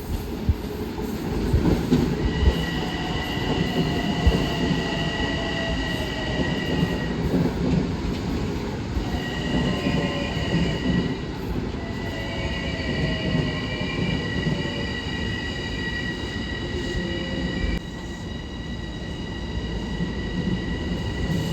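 Long Island Rail Road electric commuter train pulling into the station over a steady low rumble, with a few clanks in the first few seconds. High-pitched wheel squeal comes and goes throughout, and faint falling whines suggest the train slowing.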